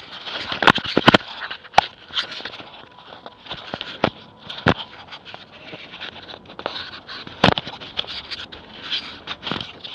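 Close rustling and scraping handling noise on a wrist-mounted action camera, with irregular sharp clicks and knocks. The loudest clicks come near the start and again about three quarters of the way through.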